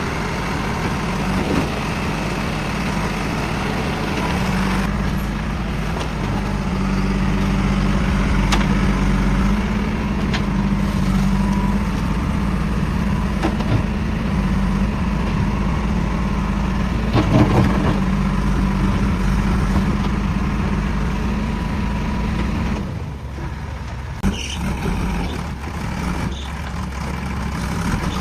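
Heavy diesel engine running steadily, with a few sharp knocks; its hum drops away about twenty-three seconds in, leaving a lower rumble.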